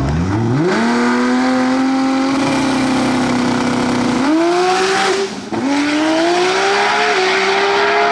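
Drag-racing car's engine launching and pulling hard down the strip. The note climbs at once and holds, then dips and climbs again at gear changes about four and five and a half seconds in.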